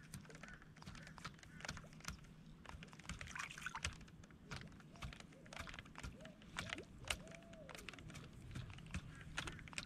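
Faint, irregular small clicks and taps, with a few short low gliding tones a little past the middle.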